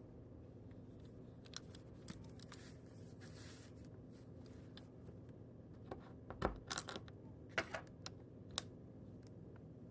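Small sharp clicks and taps from handling a Dodge key fob's plastic case during a battery change, bunched together from about six seconds in, over a steady low hum.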